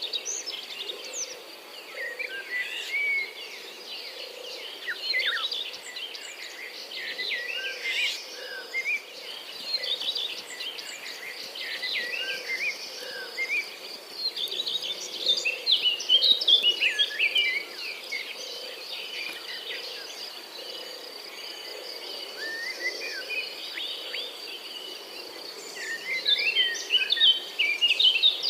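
Birds chirping and singing over a steady high-pitched insect drone, with the chirps thickest in two busier stretches, about halfway through and near the end.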